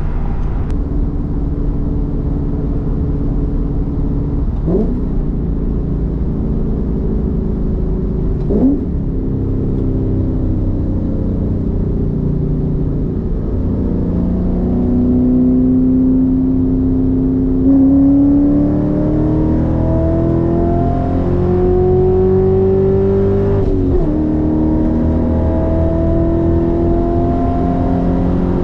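Roush Mustang's engine heard from inside the cabin while driving: two quick throttle blips about five and nine seconds in, then the revs climbing gradually as the car accelerates, with a brief break in the climb about twenty-four seconds in.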